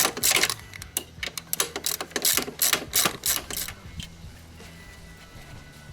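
Socket ratchet wrench clicking in quick strokes on a bolt of a motorcycle's Pro-Link rear suspension linkage, stopping about three and a half seconds in.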